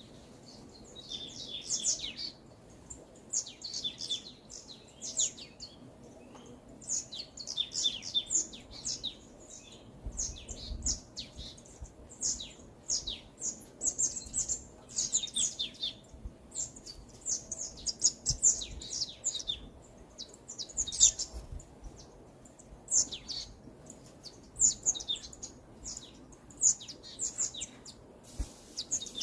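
Songbirds singing in a forest: short phrases of quick, high chirping notes, repeating every second or two.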